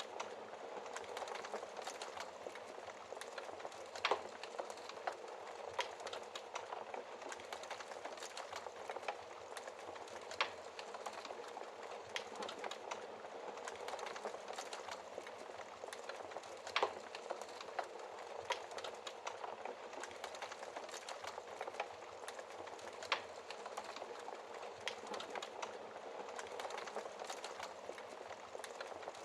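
Wood fire crackling steadily, dense small crackles with a sharp louder pop every few seconds.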